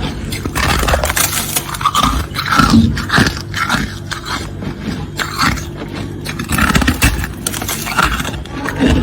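Freezer frost being scraped off, with repeated, irregular scraping strokes.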